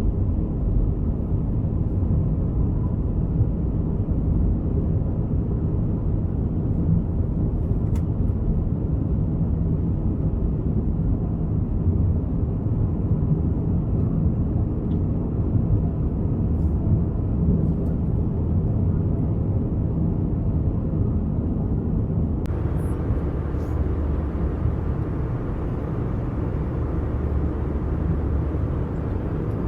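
Airbus A320 cabin noise: the steady low rumble of the engines and airflow. About 22 seconds in it changes abruptly and gains a brighter hiss.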